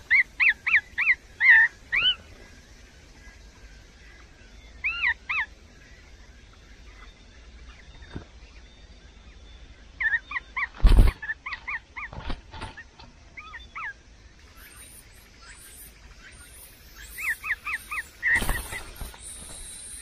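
Nestling songbird calling from the nest in runs of short, quick chirps, about six a second, four times over. Two loud thumps break in, one about eleven seconds in and one near the end.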